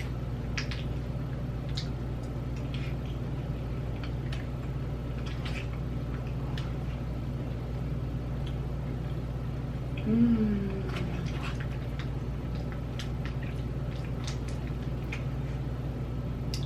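Dill pickle potato chips crunching as they are chewed, heard as scattered crisp clicks over a steady low hum. About ten seconds in comes one short, falling voiced sound.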